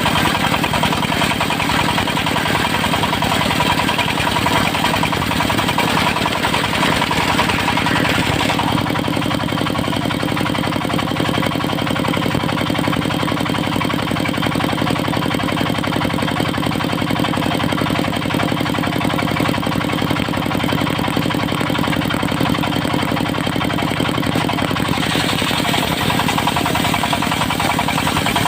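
Diesel engine driving a portable circular sawmill, running steadily. The sound is harsher and hissier for the first eight seconds or so and again in the last few seconds, consistent with the saw blade cutting through teak, and plainer engine running in between.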